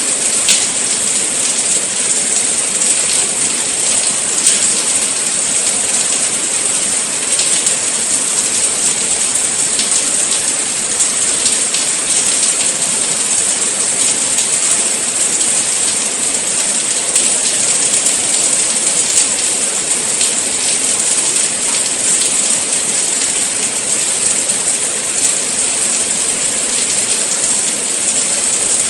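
Steady rain falling: a dense, even hiss with many small ticks of single drops.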